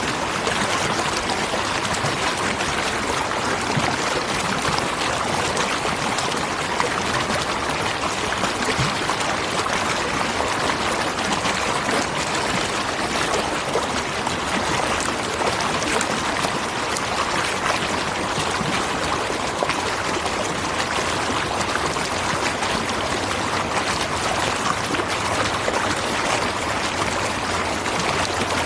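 Waterfall: water falling and rushing in a steady, even rush with no breaks.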